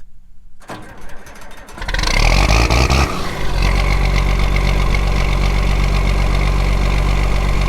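Old John Deere tractor engine starting: cranking under a second in, catching about two seconds in, then settling into a steady idle.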